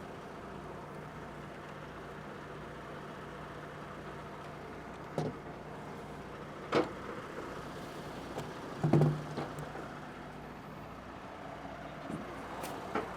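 Rotator tow truck's diesel engine running steadily, with a few sharp knocks about five, seven and nine seconds in, the one near nine seconds the loudest.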